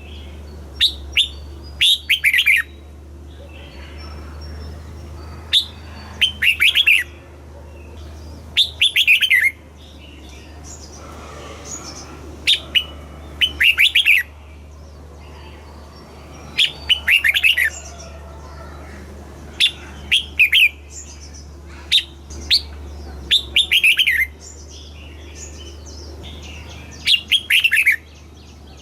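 Red-whiskered bulbul singing short, bright phrases of quick falling whistled notes, often two close together, repeated every few seconds over a steady low hum.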